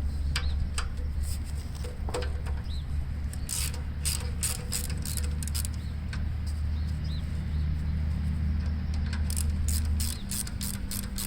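Ratchet wrench clicking in quick runs as a bolt is worked loose, over a steady low hum that stops about ten seconds in.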